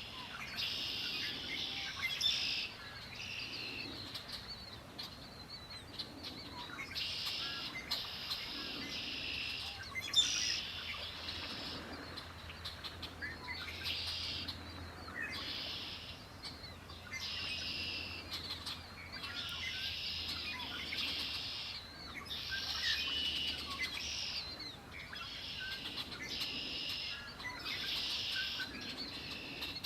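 Songbirds singing: a high, rapid song of a second or two repeats every couple of seconds, with scattered short chirps between.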